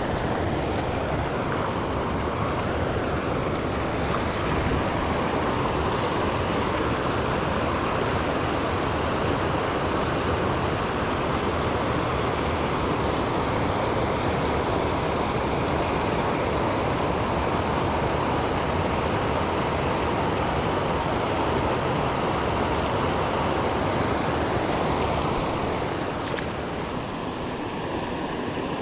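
Steady rushing of river water, an even noise that eases slightly near the end.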